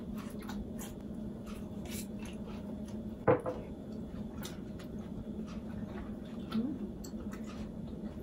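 Mouth sounds of chewing a thick, crisp-edged bean sprout pancake: a string of small irregular crunching clicks, with one louder knock about three seconds in, over a steady low hum.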